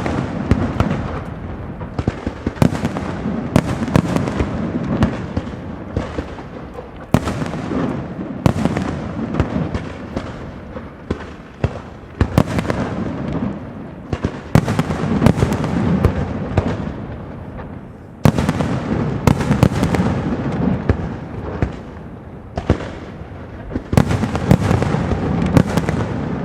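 Castillo fireworks display: aerial shells bursting in rapid succession over dense crackling, the loudness swelling and easing in waves every few seconds.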